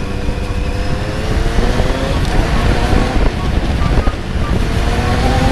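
Kawasaki Z900's inline-four engine accelerating, its pitch rising, dropping back at a gear change a little over two seconds in, then rising again. Heavy wind noise on the microphone.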